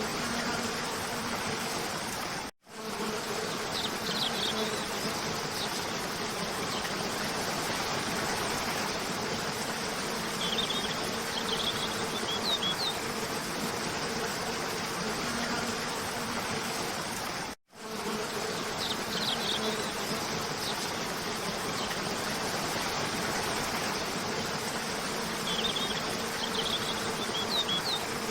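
Cascading waterfall rushing steadily, with a faint steady hum underneath and small clusters of short bird chirps a few times. The sound cuts out for a split second twice, about fifteen seconds apart, where the looped track restarts.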